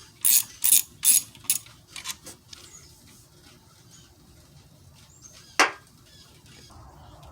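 Hand ratchet with a 1/2 inch deep socket clicking as it is worked on an alternator mounting bolt: four loud clicks in the first second and a half, a few fainter ones after, and a single sharp click about five and a half seconds in.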